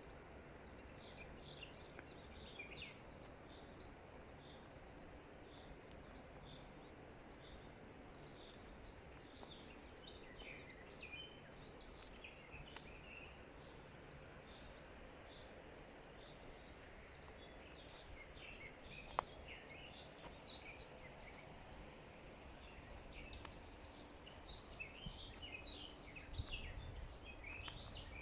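Small birds chirping and singing, many short high calls that grow busier near the end, over a faint low background rumble, with a single sharp click about two-thirds of the way through.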